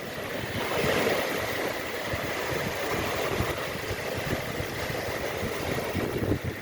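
Sea waves washing on the shore, swelling about a second in, with wind buffeting the microphone.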